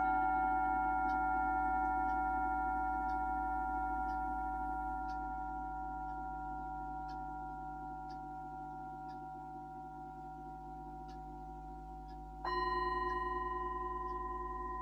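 Himalayan singing bowls ringing: a long, slowly fading tone with a gentle wavering beat. Near the end another bowl is struck and rings with a new set of tones.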